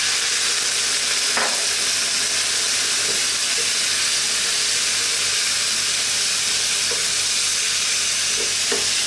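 Sweet potato, kidney beans and canned tomatoes sizzling steadily in a hot non-stick frying pan as liquid hits the hot pan, with a wooden spoon stirring and knocking lightly against the pan a few times.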